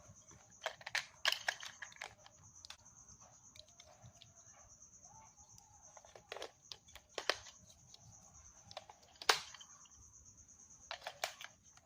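Scattered light clicks and rustles of small objects and packaging being handled, the sharpest about a second in and again near the middle, over a faint steady high hiss.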